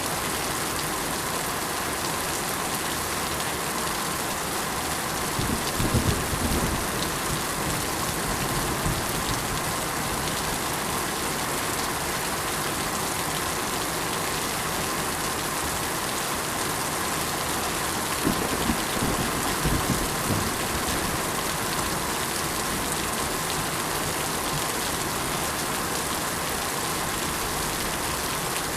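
Steady rain falling, an even hiss of many drops. Two short, low rumbles come through it, about six seconds in and again about eighteen seconds in.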